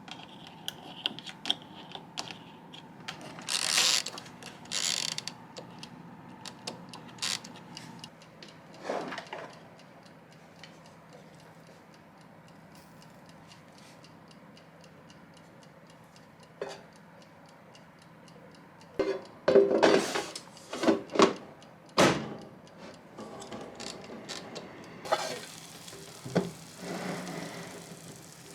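Scattered small clicks, taps and rustles of objects being handled, in loose clusters with quiet gaps, over a faint steady hum.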